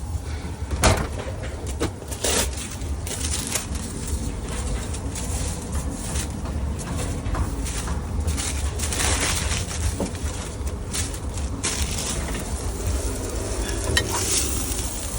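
Food cooking on a flat-top griddle: steady sizzling with metal spatula scrapes and sharp knocks against the griddle, over a steady low hum.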